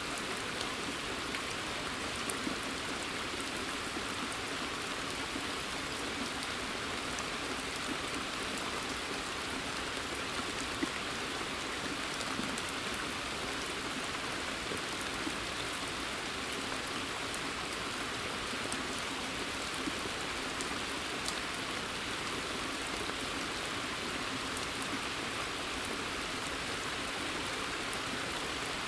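Steady rain falling on forest foliage and water, an even hiss with scattered individual drops ticking.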